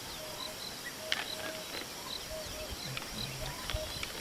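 Bush ambience: a bird repeating short whistled notes about twice a second. There is a sharp knock about a second in and another near the end.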